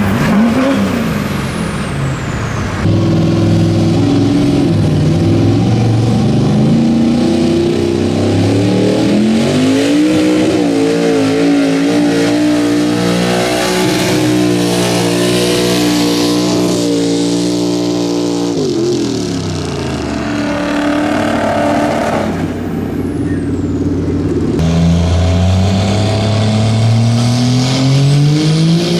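Pickup truck engines at wide-open throttle pulling a weight-transfer sled: loud, steady high revs that climb, hold, then fall away about two-thirds through before climbing again near the end. The sound changes abruptly a few times, as if jumping from one run to the next.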